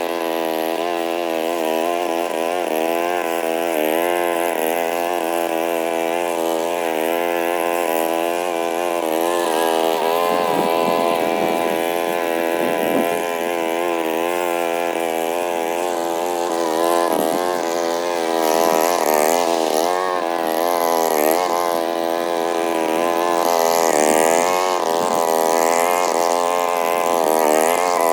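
Lawn mower engine running continuously under load, its pitch wavering up and down as the load on the blade changes.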